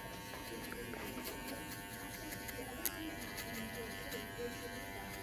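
TPOB GO cordless hair clippers running with a steady electric buzz, with a sharp click about three seconds in.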